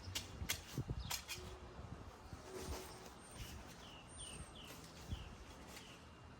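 Birds chirping: a quick run of about five short falling chirps and a few thin high whistles in the middle, with a few faint knocks and rustles in the first second or so.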